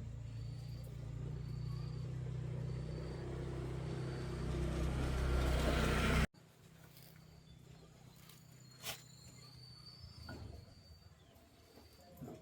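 A machine's motor running with a steady low hum that grows louder and fuller, then cuts off abruptly about halfway through. An insect chirps faintly about twice a second during the hum, and a single sharp click comes later.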